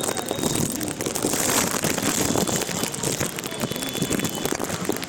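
Heavy rain falling on a street, a dense patter of drops, with a vehicle's engine running underneath; the noise swells for about a second, starting about a second and a half in.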